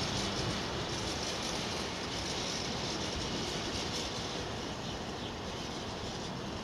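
Freight train wagons rolling away along the track: a steady noise of wheels on rail that slowly gets quieter as the train recedes.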